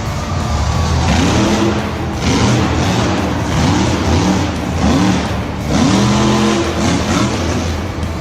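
Engine revving over and over, its pitch rising and falling about once a second over a steady rumble.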